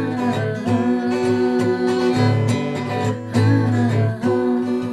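Acoustic guitar playing an instrumental passage between sung verses.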